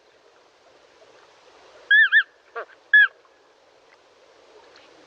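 Flamingo giving short honking calls, each rising and falling in pitch: a quick double call about two seconds in, a brief lower call, then a single call a second later.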